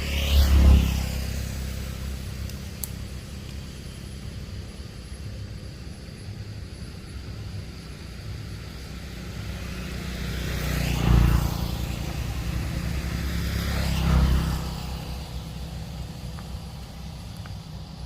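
Motor vehicles passing close by on a road, three times: about half a second in, about 11 seconds in and about 14 seconds in, each swelling and falling away as it passes. A steady low rumble of traffic runs underneath.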